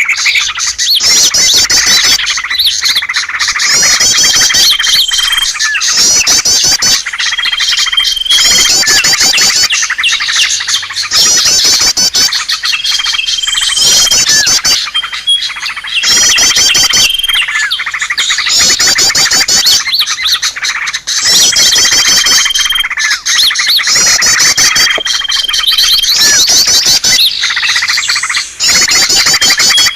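Small songbirds chirping and twittering without pause, a bird-lure (pikat) call recording. Quick high trilled phrases repeat over a constant busy chatter, with a short, steady high whistle every few seconds.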